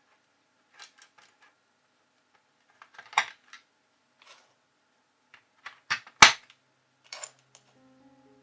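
Irregular sharp plastic clicks and knocks from a computer keyboard's parts being handled, about a dozen in all. The loudest come about three seconds in and twice around six seconds in.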